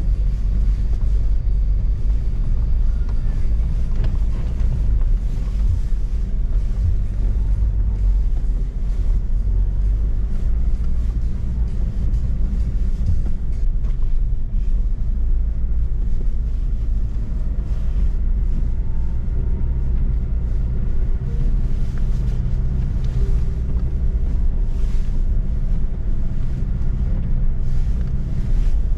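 Nissan Pathfinder SUV driving through snow: a steady low engine and road rumble, with wind buffeting the microphone.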